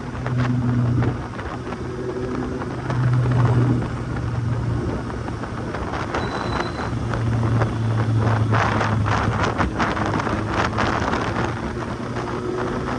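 Kawasaki Z800's inline-four engine running on the move, its note swelling louder three times as the throttle opens, over steady wind rush on the microphone. Crackly wind buffeting on the microphone in the later seconds.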